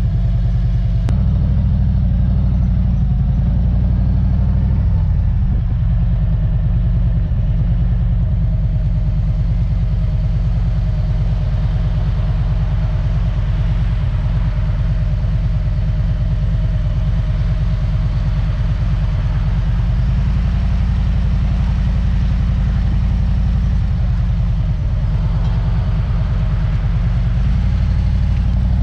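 A vehicle engine running steadily while driving along, with its low drone shifting in pitch a few times as the speed or gear changes.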